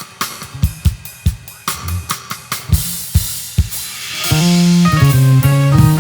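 Live drum kit playing a solo groove of kick, snare and hi-hat, with cymbals building up about three seconds in. A little past four seconds the full band comes in together with a bass line and held chords, and the music gets louder.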